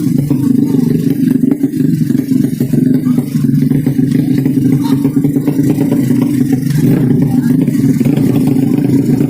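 200cc underbone race motorcycle engine running loud and steady.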